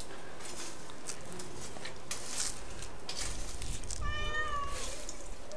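A cat meowing once, a single call about four seconds in that dips in pitch at its end, with a few short scraping noises from a knife working a fish before it.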